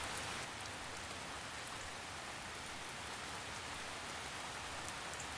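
Steady rainfall, an even patter of drops with faint scattered ticks of individual drops.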